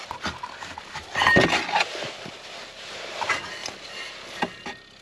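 Scattered knocks and clinks of metal tools and snowmobile clutch parts being handled, loudest as a quick cluster about a second in, with a few single knocks later, over a light rushing noise.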